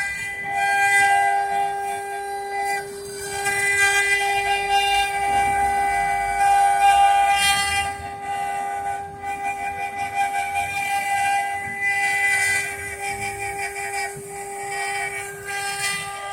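CNC wood router's spindle running with a steady whine and a ladder of overtones while the bit carves wood. The rougher cutting noise swells and eases every few seconds as the cut changes.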